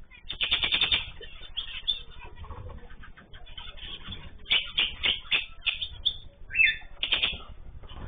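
Aviary birds flapping their wings in quick flurries, one near the start and two more in the second half, with a short bird call between them.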